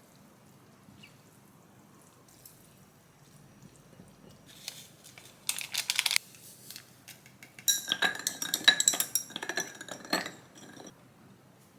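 Dishes and metal cutlery being handled. Quiet at first, then a short clatter about halfway in, then a busier run of sharp clinks with a ringing edge before it settles.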